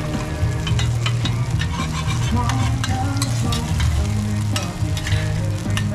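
Batter frying and sizzling in round metal pans, with a metal spatula scraping and tapping against them many times. A low steady hum runs underneath.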